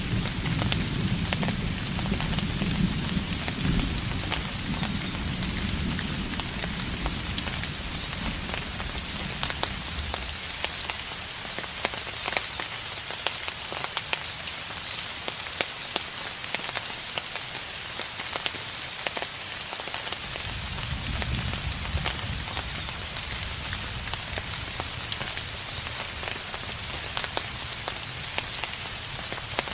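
Steady rain with many individual drops ticking, and distant thunder rumbling low: one rumble fading out over the first few seconds and a fainter one rolling in about two-thirds of the way through.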